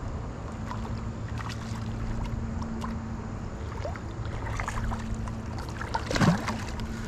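Water and small knocks and clicks around a fishing kayak while a hooked carp is played close to the boat, with one louder, brief sound about six seconds in.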